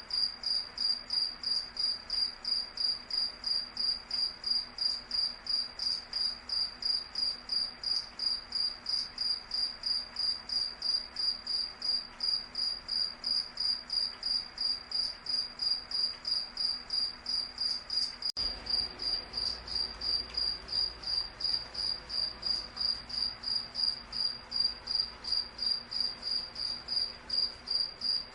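A cricket chirping steadily, a high-pitched chirp repeated about three times a second.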